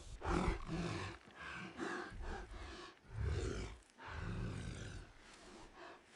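Monster roar sound effects for a giant python lunging after its prey: a run of four or five loud, rough roars with short breaks between them.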